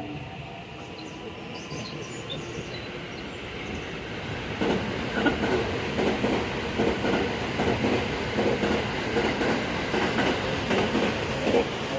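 Train running on the rails, growing louder, then from about five seconds in a steady clickety-clack of its wheels over the rail joints, a few knocks a second.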